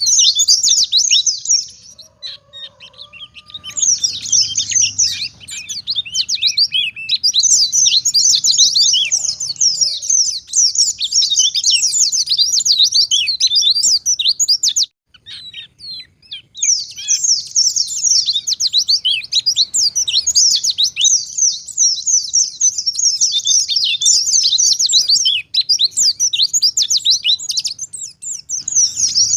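A white-eye (pleci) in full song: a long, fast twittering of high chirps. The song breaks off briefly about two seconds in and again about halfway through.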